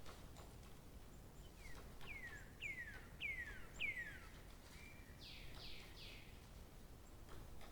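A songbird singing a faint series of five clear whistled notes, each falling in pitch, then a brief burst of three shorter, rougher falling notes.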